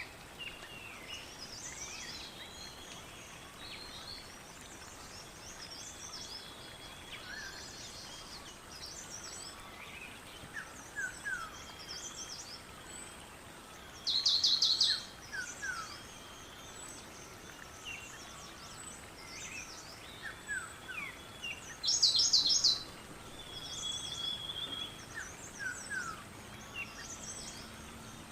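Several songbirds singing and chirping over a faint steady hiss, with short downward-sliding whistles and scattered high chirps. The loudest parts are a rapid, high trill of quick repeated notes, heard twice, each about a second long.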